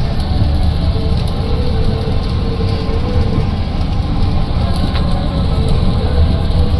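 Steady low rumble heard inside a vehicle, without a break, with a faint hum above it.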